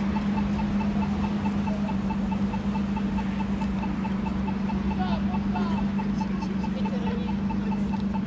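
A car engine idling in traffic, a steady low hum. Behind it, a pedestrian crossing signal ticks at an even pace of about four ticks a second.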